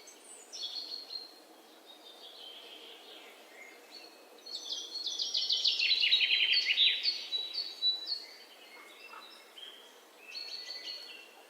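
Songbirds singing: quick runs of short, high repeated notes, loudest in a long bout from about four seconds in to about two-thirds of the way through, with fainter calls before it and a shorter burst near the end, over a low steady background hiss.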